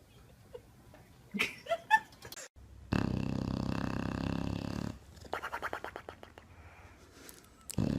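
An animal making a loud, rough rumbling sound for about two seconds, broken off abruptly, then a short run of quick pulses.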